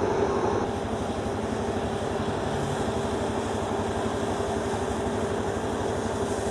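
New Holland CR990 combine harvester running steadily while cutting oilseed rape, a constant mechanical drone with a steady hum.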